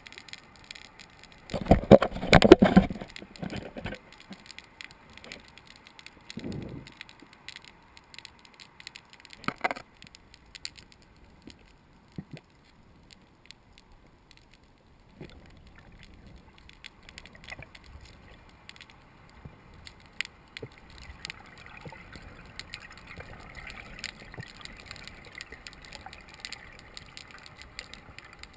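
Underwater bubbling and gurgling, with a loud rush of bubbles about two seconds in and a few smaller ones after, then faint water noise and small clicks.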